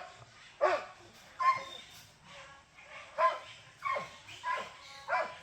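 A dog barking repeatedly, about six short, sharp barks at uneven intervals.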